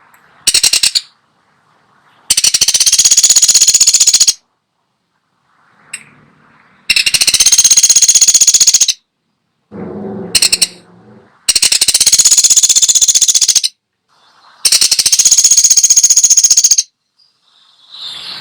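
Woodpecker giving a rapid rattling call: four bursts of about two seconds and two shorter ones, each a fast run of sharp, high, ringing notes, with short pauses between them. A brief lower-pitched sound comes about ten seconds in.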